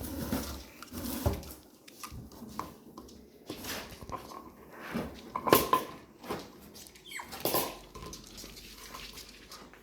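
Labrador puppies moving about, with small paws pattering and scattered light knocks and scrapes; the two loudest knocks come about five and a half and seven and a half seconds in.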